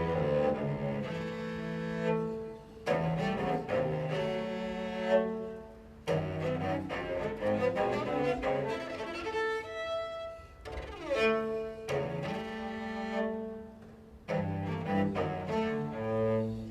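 Solo cello with a string orchestra playing classical music in phrases, broken by brief pauses about every three to five seconds.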